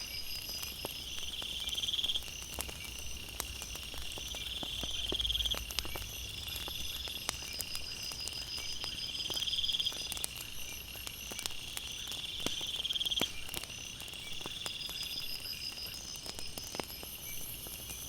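Night insects trilling in a steady chorus, one loud trill swelling and cutting off about every three to four seconds, over the scattered pops and crackles of a wood fire.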